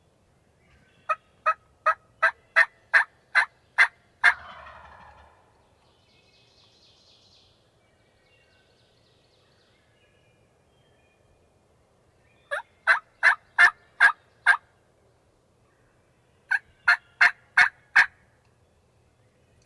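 Turkey yelping: three series of sharp, evenly spaced notes at about three a second. A gobble breaks in just after the first series, about four seconds in.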